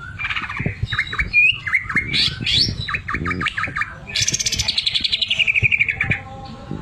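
Green leafbird (cucak ijo) singing: a run of varied whistles and chattering notes, then a fast, even rattling trill that falls in pitch for about two seconds. That trill is the mimicked 'sewing machine' phrase bird keepers prize.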